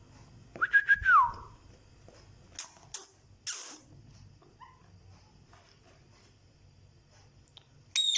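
Pet parrot whistling: a short whistle about a second in that drops in pitch, a few short harsh noises soon after, and a high-pitched call near the end.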